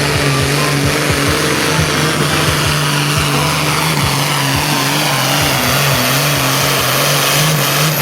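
A big 640-cubic-inch engine running loud at steady, high revs.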